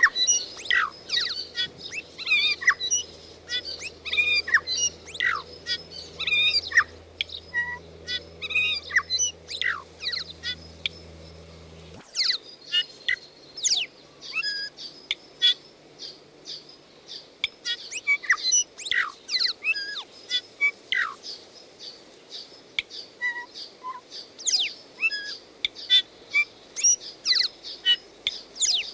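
Birds singing in the bush: a dense run of quick high chirps and whistles, many of them short downward slurs, one after another without a break.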